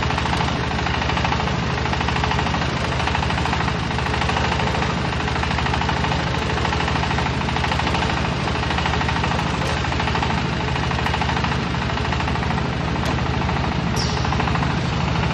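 Silage baler-wrapper machine running steadily: a low, even drive hum with a rapid, regular mechanical clatter.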